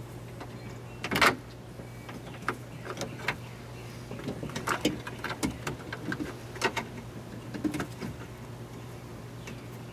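Scattered clicks and light knocks of plastic door parts and wiring being handled as a sensor's wire connector is routed and plugged in, with one sharper knock about a second in. A steady low hum runs underneath.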